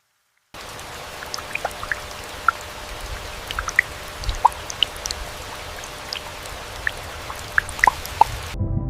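Rain falling steadily, with many separate drops plinking and plopping at scattered pitches. It starts suddenly about half a second in and cuts off shortly before the end.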